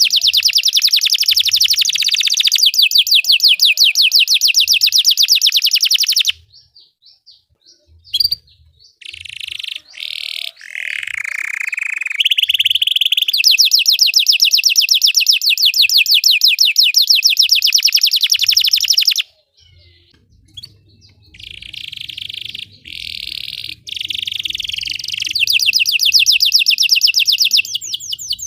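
Belgian canary singing: a long, fast rolling trill that breaks off after about six seconds, a few varied notes, then another long trill. After a short pause about two-thirds of the way in, the trilling resumes.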